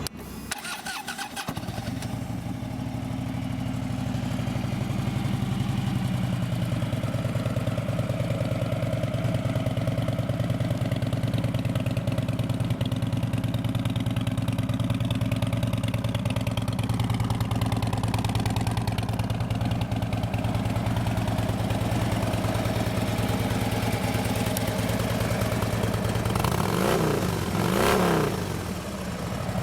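2013 Harley-Davidson Street Glide's 103-cubic-inch fuel-injected V-twin, through Vance & Hines fishtail exhaust pipes, starting about a second in and settling into a steady idle. The throttle is blipped up and back a couple of times near the end.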